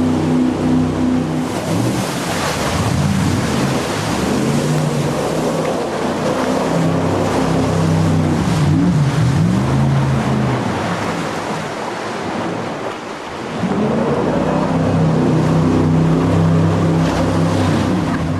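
Jet boat engine running over a steady rush of water and wind noise; its pitch holds steady at first, rises and falls several times through the middle, then steadies again near the end.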